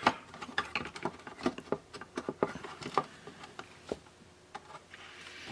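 Irregular light clicks and taps of a part being handled and test-fitted inside a plastic radio cassette player case, with a sharper click right at the start.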